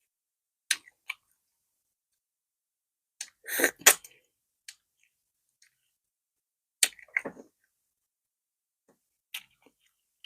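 Close-miked eating sounds of soft fufu with slimy okra soup: scattered wet mouth clicks and smacks, with two louder, longer ones about three and a half and seven seconds in.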